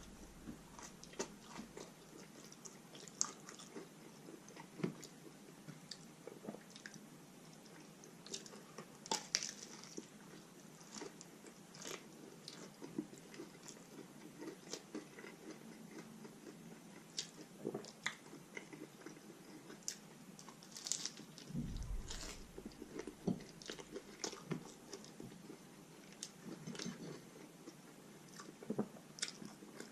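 A person chewing and biting food close to the microphone, with frequent small crunches and wet mouth clicks at an irregular pace. A soft low bump about two-thirds of the way through.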